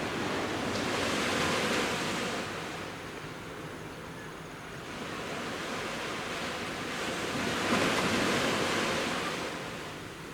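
Sea waves breaking and washing up the beach: two swells of surf, one about a second in and a louder one about eight seconds in, each rising and then falling away.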